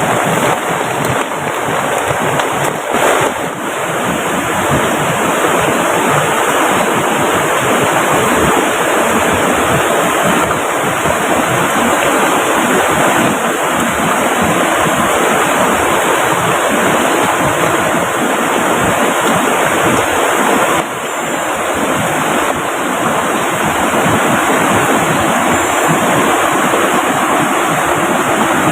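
Loud, steady rush of water from heavy rain and a fast-running river swollen by it.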